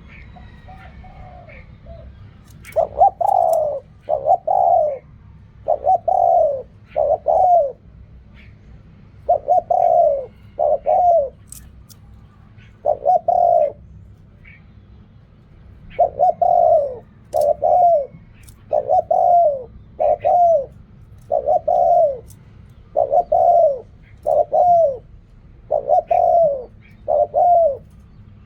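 Spotted dove cooing: repeated phrases of short, low coos, each falling at its end, starting about three seconds in and recurring every second or two.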